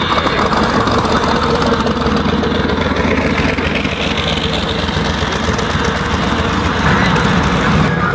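A car engine idling loudly and steadily.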